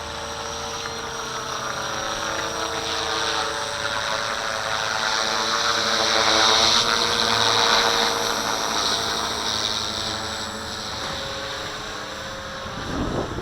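Walkera V450D01 electric RC helicopter in flight: a steady high whine from the brushless motor and drive with the rotor's drone beneath it, growing louder toward the middle and easing off again as it moves about.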